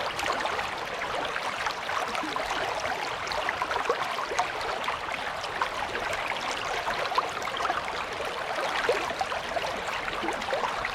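Creek water running and babbling steadily, a dense stream of small splashes and trickles.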